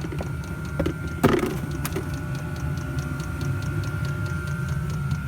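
Chinese 5 kW diesel heater running: its fuel dosing pump ticks evenly several times a second over a steady hum. A couple of knocks come about a second in.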